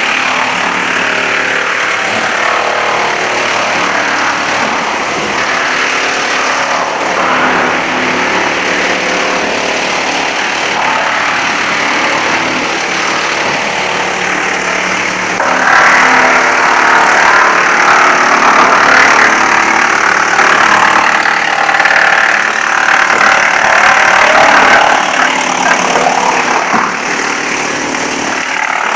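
Wood chipper running steadily with its engine and cutting drum turning. From about halfway through until near the end it gets louder and rougher, which fits wood being fed in and chipped.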